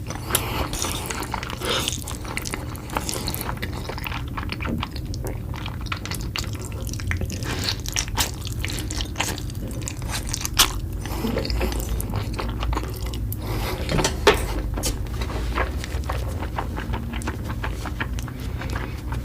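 Close-miked eating ASMR: a person chewing a mouthful of saucy noodles, with a dense run of wet, sticky mouth clicks and smacks over a steady low hum.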